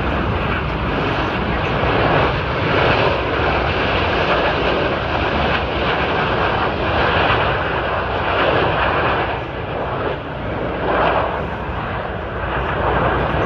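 Military jet aircraft flying past: loud rushing jet engine noise that swells and eases several times.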